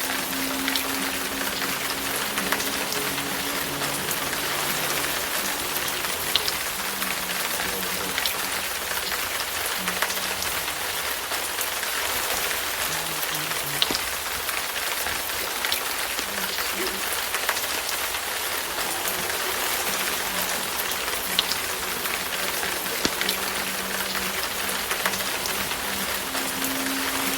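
Wood fire crackling in a fireplace: a steady hiss with sharp pops every second or two.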